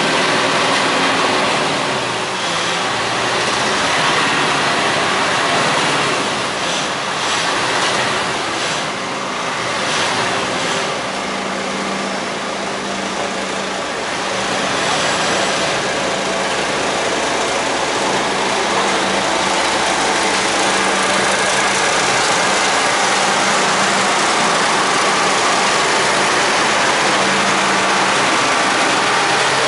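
Road construction machinery's engine running steadily with a constant low hum, under a dense noisy wash of machine sound.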